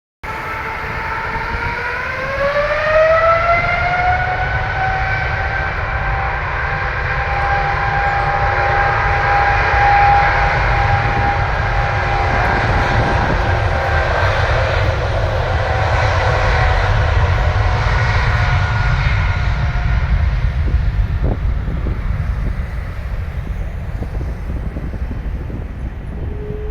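Boeing 777-200ER's twin turbofan engines spooling up to takeoff thrust. A whine rises in pitch over the first few seconds, then holds steady over a deep rumble, and the whine fades after about twenty seconds.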